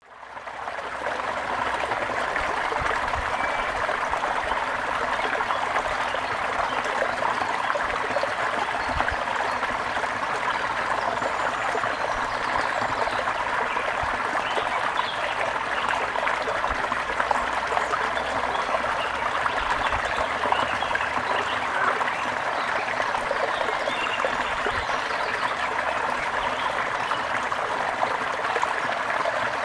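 Small stream trickling and gurgling steadily, fading in over the first second, with faint bird chirps now and then above the water.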